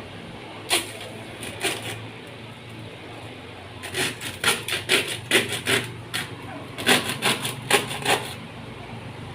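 Hammer striking wood: a single blow, a couple more, then two runs of quick blows at about four a second, as in nailing boards together.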